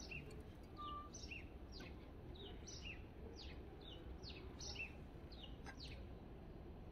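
A small songbird singing faintly: a quick run of short, high notes, each sliding down in pitch, about three a second.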